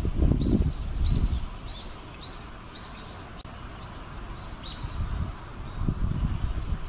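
A small bird chirping: a quick run of short, high chirps over the first three seconds, then a single chirp later. Bursts of low rumble near the start and again after about five seconds are louder than the chirps.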